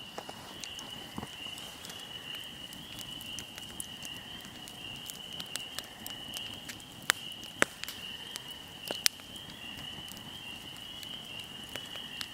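Fire crackling with a near-constant patter of small pops and three sharp, louder pops in the second half, over a steady high-pitched drone.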